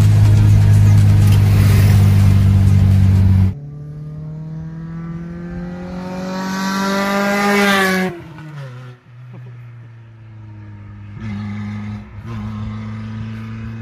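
Maruti Suzuki Esteem engine droning loudly at a steady pitch, heard inside the cabin. After a sudden cut it revs up, rising in pitch for about four seconds, drops off abruptly, and then settles into a quieter steady drone.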